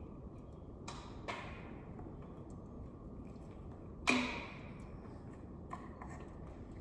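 A few sharp metallic clinks and knocks of tools and parts being handled on an LS engine's valvetrain, the loudest about four seconds in with a short metallic ring.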